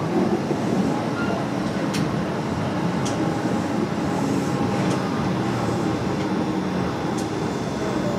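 Running noise of a Kintetsu 8800 series electric train, whose DC traction motors use field-phase control, as it runs into a station. A steady rumble of wheels and motors, with a few sharp clicks from the track.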